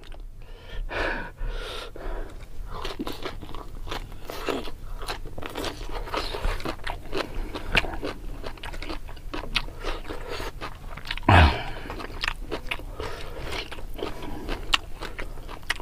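Close-up eating sounds: crunching and chewing of raw leafy greens (lalapan) with rice and chili sambal, with many small sharp mouth clicks. A short low hum from the eater about eleven seconds in.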